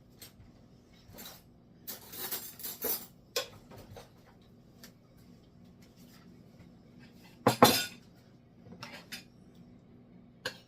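Utensils clinking and scraping against a pan and a plate while chicken, vegetables and pan sauce are served, in scattered strokes, with the loudest knock about seven and a half seconds in.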